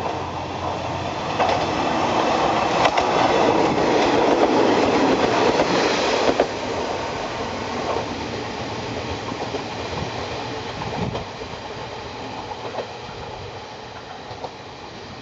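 Kanto Railway KiHa 2300 diesel railcar passing close by, its wheels clattering over the rail joints. The sound builds for the first few seconds, drops suddenly about six seconds in as the train goes by, then fades as it moves away.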